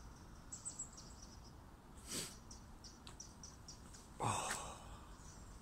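Faint outdoor quiet with a small bird chirping a quick series of short, high, evenly spaced notes. A short rustling noise a little after four seconds is the loudest sound.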